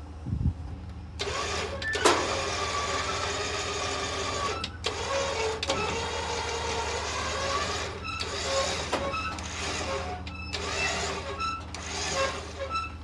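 A vehicle engine idling steadily, with a harsh mechanical whirring that starts and stops four times over it.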